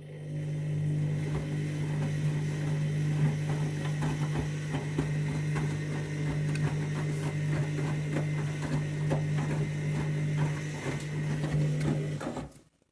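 Candy washing machine's drum motor turning the drum during the wash phase, a steady hum with a run of light ticks and knocks from the tumbling load; it builds up over the first second and stops near the end as the drum pauses.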